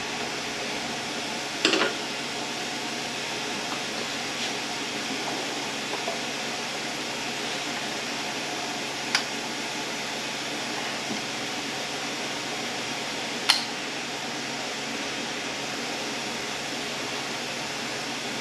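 Steady fan-like background hiss in a workshop, broken by a few short sharp clicks of parts being handled on a transmission during teardown, such as harness connector locking tabs being worked.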